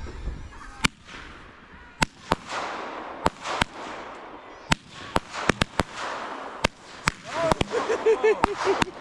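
Fireworks going off: a string of sharp bangs at uneven intervals over a steady crackling hiss, with a wavering whistle joining in about seven seconds in.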